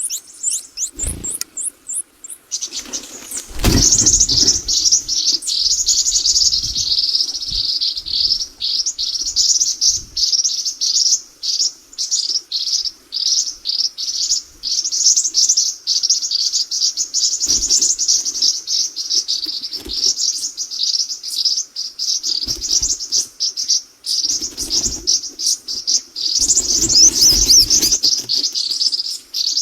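Small birds, likely the nestlings, cheeping rapidly and continuously in a high-pitched chorus from about three seconds in, with a few low thumps or knocks scattered through.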